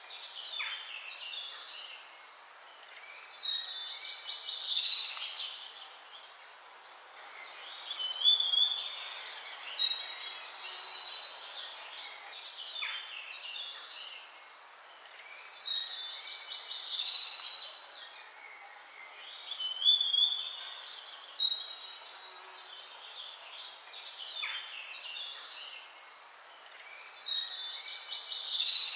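Songbirds singing and calling in bursts of chirps, trills and sliding whistles every few seconds over a steady background hiss; the same sequence of calls comes round about every twelve seconds.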